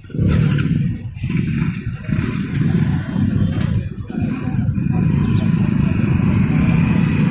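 Loud, low vehicle rumble that starts abruptly, with short dips about once a second before it settles into a steady drone.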